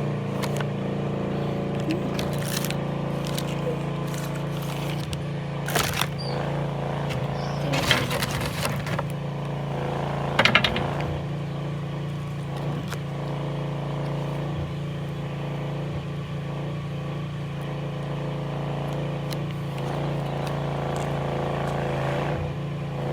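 A plastic-and-foil MRE pouch being handled, crinkling and rustling in short bursts about six, eight and ten seconds in, over a steady low hum.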